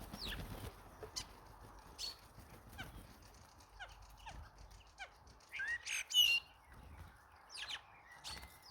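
Birds calling: a series of short, downward-sweeping chirps every second or so, with a louder cluster of calls about six seconds in and another near the end.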